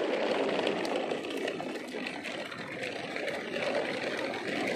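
A line of plastic toy trucks rolling over rough concrete: a steady rolling noise of hard plastic wheels with light clicks and rattles.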